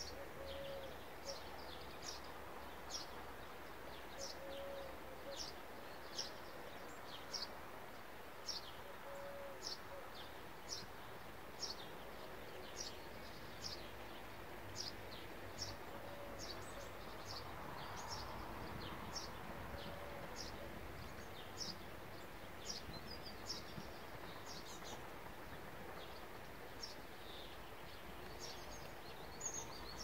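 Thin, high bird calls, each a quick downward sweep, repeated about once every three-quarters of a second, with a short low note every few seconds, over a steady outdoor background hiss.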